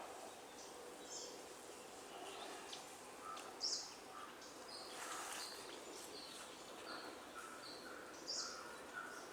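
Several birds calling: short, high chirps scattered throughout, the loudest about three and a half seconds in, and a series of evenly spaced lower notes in the second half.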